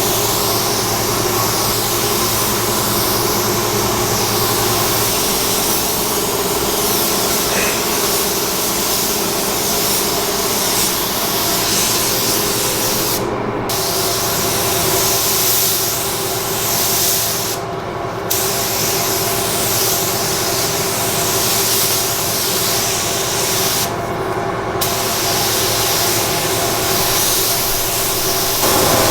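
Paint spray gun hissing steadily as it sprays a green base coat, stopping for a moment three times. A steady hum runs underneath.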